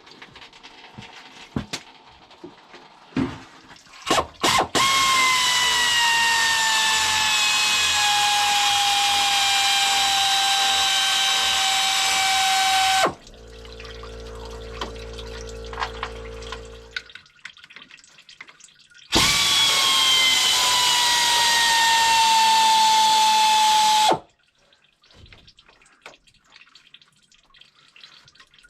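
Air ratchet spinning out the 13mm water pump bolts, in two long runs with an airy hiss and a whine that sinks slowly in pitch. A steady low hum sits between the runs, and a few clicks of handling come before them.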